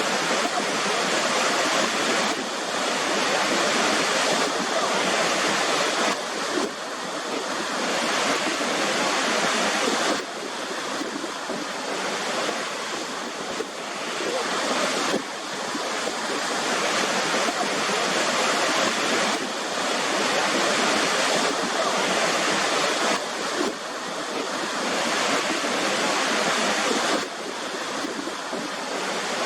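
Waterfall: a steady rush of falling water whose level shifts abruptly every few seconds.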